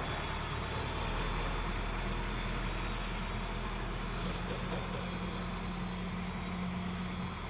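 ACE AX124 backhoe loader's diesel engine running steadily at low revs, with a steady higher hum joining for about three seconds in the second half.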